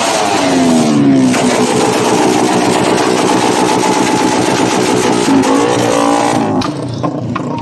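Motorcycle engine revved hard in a rev contest. It falls back from a blip in the first second, holds at high revs, climbs again about five seconds in, then drops suddenly to a quieter idle near the end.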